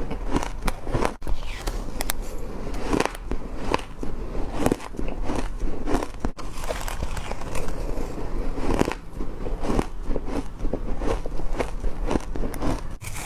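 A person biting and chewing hard crushed ice: a fast, continuous run of sharp crunches and crackles, with brief breaks about a second and about six seconds in.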